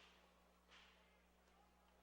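Near silence: a faint steady electrical hum, with two brief faint noises, one at the start and one a little under a second in.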